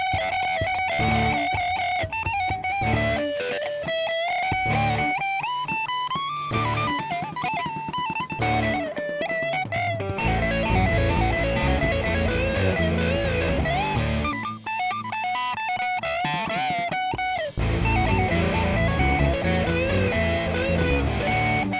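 Instrumental break of a rock song: an electric guitar plays a lead melody with bent, sliding notes, and the full band backing comes in heavier about halfway through.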